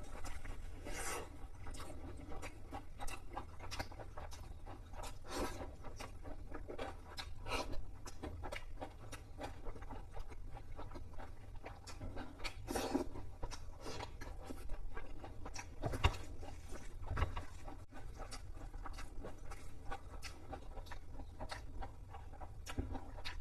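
Fried chicken being eaten: irregular crisp crunches, tearing and chewing in quick succession, over a steady low hum.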